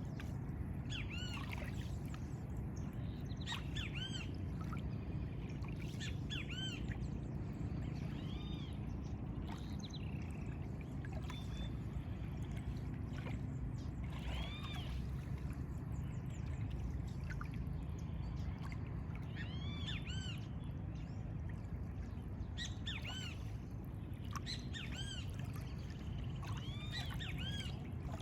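Songbirds chirping: many short, arched, high calls scattered throughout, over a steady low rumble.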